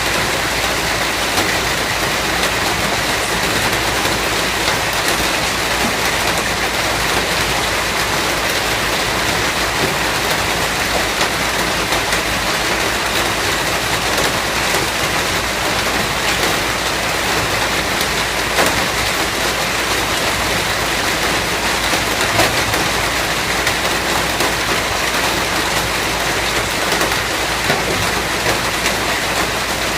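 Steady, heavy rain falling, a dense even hiss with many small drops ticking on a surface and a few louder drips now and then.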